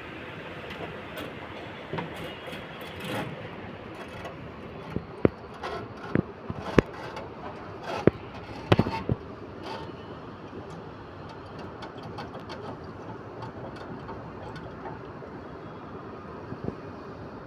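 LG inverter window air conditioner running with a steady rumble, with a series of sharp clicks and knocks in the first half. The technician traces the unit's noise to its fan blade sitting loose on the shaft and touching as it turns.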